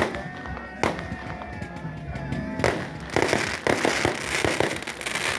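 Fireworks going off: single sharp bangs at the start, about a second in and near the middle, then a dense run of rapid crackling bangs for a second and a half. Music plays under it.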